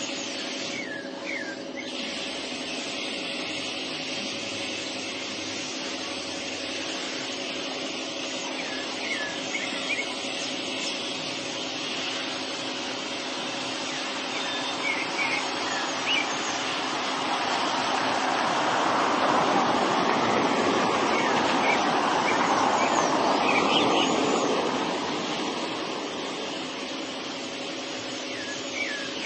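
Outdoor ambience with a steady hiss and low hum, broken by scattered short chirps of house sparrows. In the second half a vehicle passes: its noise swells for several seconds, then fades.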